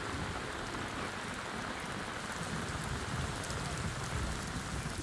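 Steady rain falling, an even continuous hiss of downpour.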